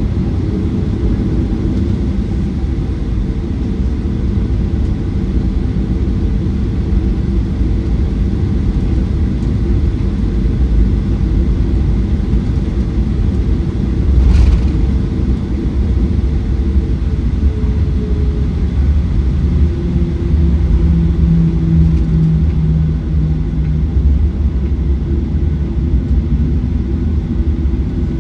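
Cabin noise inside a Boeing 737-900ER with its CFM56 engines running: a loud steady low rumble with a few steady engine tones. A single brief knock comes about halfway through.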